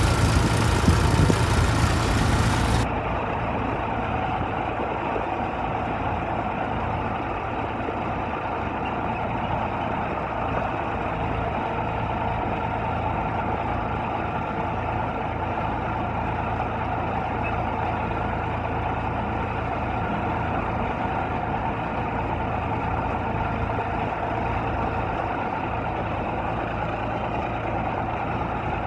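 Tractor diesel engine running steadily. About three seconds in, the sound becomes a little quieter and duller and then holds steady.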